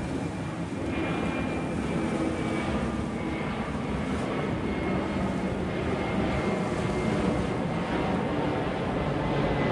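A fixed-wing aircraft's engines running as it passes: a steady engine noise with a thin high whine that slowly falls in pitch, getting louder about a second in.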